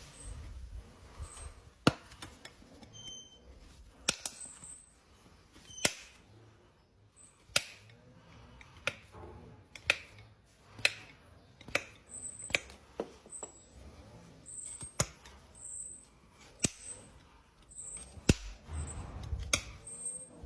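Sharp snaps and clicks, roughly one a second at an uneven pace, from hoof-trimming tools cutting into a horse's hoof.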